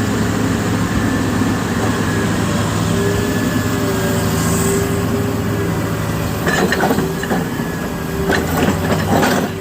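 Heavy diesel engine running steadily, with irregular knocks and clatter joining in about two-thirds of the way through.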